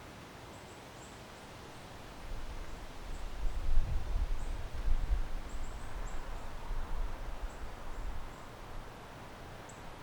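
A gust of wind buffeting the microphone, rumbling and fluttering for about six seconds before dying down, with leaves rustling in the trees. Faint high chirps run throughout.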